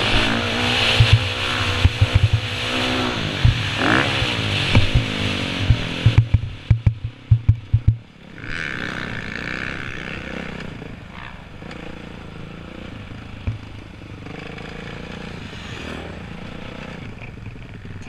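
Motocross dirt bike engine revving, its pitch rising and falling, with repeated low thumps. After about six seconds it drops away, and a quieter steady engine sound carries on.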